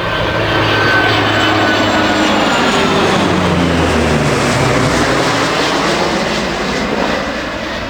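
Boeing 757 and Lockheed P-3K Orion making a low flypast together, engine noise from the 757's jets and the Orion's four turboprops. The pitch falls steadily as they pass, and the sound eases off near the end.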